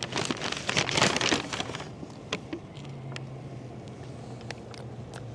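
Paper pastry bag crinkling and rustling as a pastry is taken out, dying away after about two seconds. A steady low vehicle engine hum follows, with a few faint clicks.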